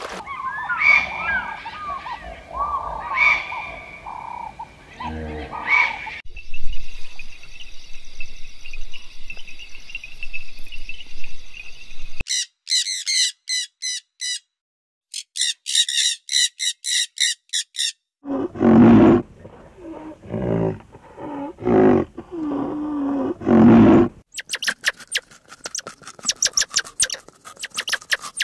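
A run of different animal calls, one after another, changing every few seconds. Among them are rapid, high chirping bird calls and lower, harsher calls.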